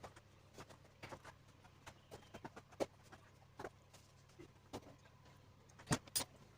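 Irregular light clicks and knocks from handling radiator parts and tools, with two louder knocks close together near the end.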